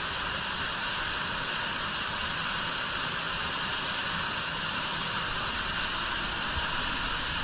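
Steady rush of an underground waterfall in a limestone cave, running high after several days of rain.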